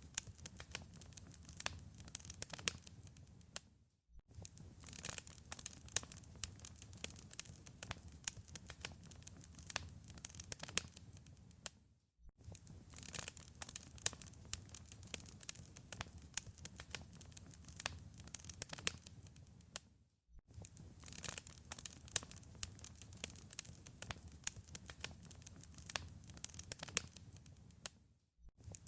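Wood fire crackling in a fireplace: a thick run of sharp pops and snaps over a low rumble. The sound drops out for a fraction of a second about every eight seconds.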